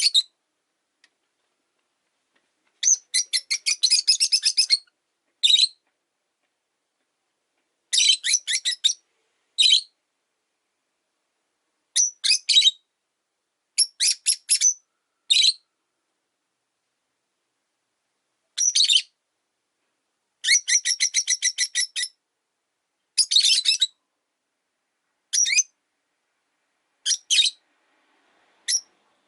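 Rosy-faced lovebirds calling in a dozen or so short bouts of rapid, high chirps, with pauses of a second or more between bouts.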